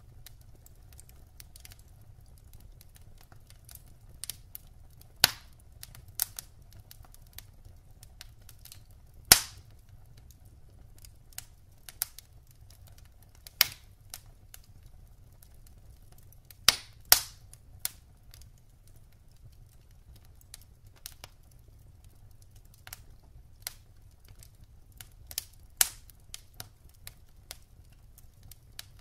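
Wood fire in a fireplace crackling: irregular sharp pops and snaps of burning logs, a few much louder than the rest, over a faint low hum of the flames.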